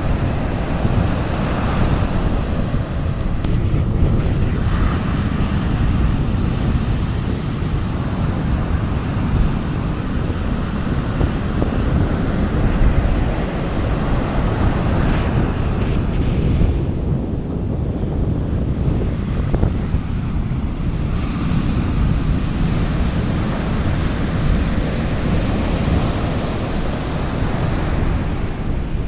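Sea waves washing onto a beach in a steady surf. A low rumble of wind buffets the microphone, and the level swells and eases slowly.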